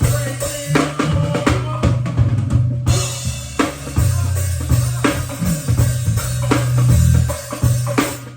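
Live band playing a groove: drum kit with kick and snare hits over a heavy bass line.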